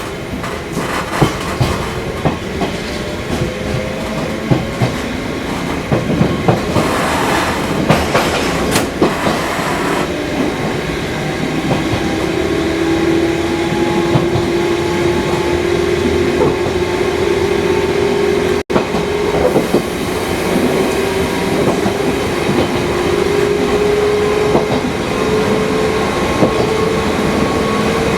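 Fukui Railway 200 series electric railcar running, its wheels clicking over rail joints. From about the middle, a motor whine rises slowly and steadily as the car gains speed.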